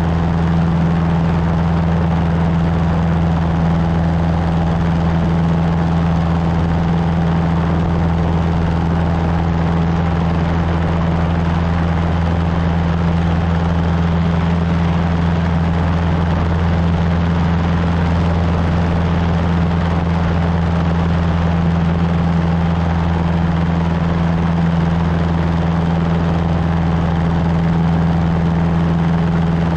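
Cessna 150's four-cylinder Continental O-200 engine and propeller droning steadily in flight, a constant low hum that holds its pitch throughout.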